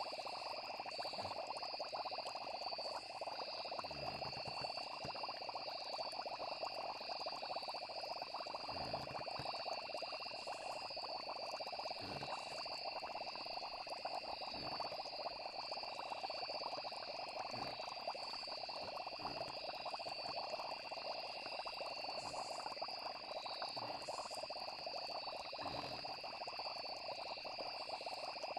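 Night chorus of frogs and insects calling steadily with a pulsing trill, over a continuous low bubbling with an occasional soft gurgle, as of a simmering cauldron.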